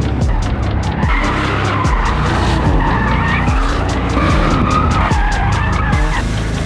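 Car tyres squealing as a car skids under power, over the low rumble of its engine, with a beat of background music.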